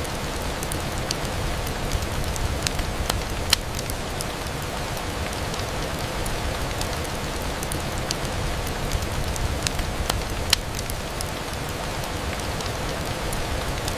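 Steady rain on a window, with scattered sharp pops and ticks through it; the two loudest come about three and a half and ten and a half seconds in.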